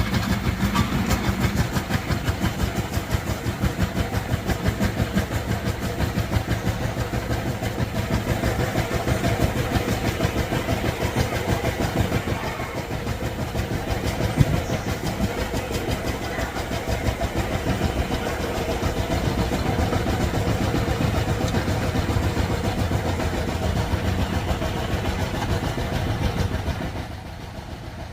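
Power tiller's diesel engine running with a steady, rapid chugging beat; it becomes quieter near the end.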